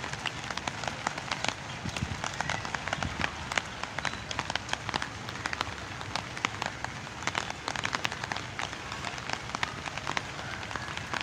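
Light rain, nearly stopped, falling on a rooftop: a steady hiss with many separate drops ticking throughout.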